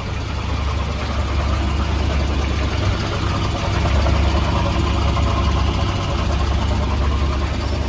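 Volvo 240 wagon's engine idling steadily through a newly fitted budget eBay exhaust, a low even drone. It is running while the new exhaust is checked for leaks, and no leak is obvious so far.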